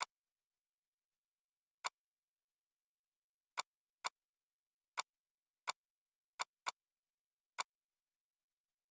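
Computer mouse clicks: about nine single sharp clicks at irregular intervals, some close together in pairs, with dead silence between.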